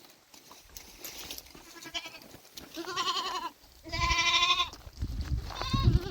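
Goats bleating: about four quavering calls, the loudest about four seconds in, with a low rumble under the last one.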